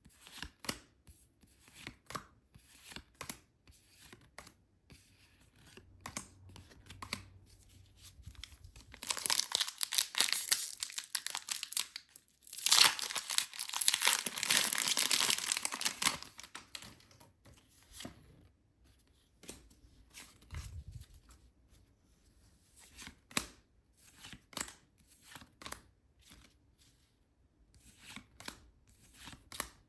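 Product packaging being torn open and crinkled by hand, with two long, loud tearing stretches about nine and thirteen seconds in, amid light clicks and taps of handling.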